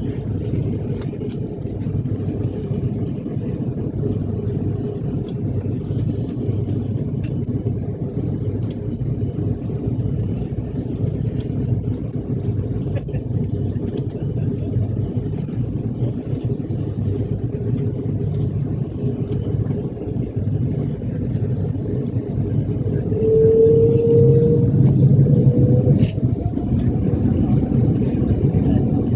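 Airplane engines running with a steady low rumble. About 23 seconds in the sound grows louder and a whine rises in pitch towards the end, as the engines spool up for take-off.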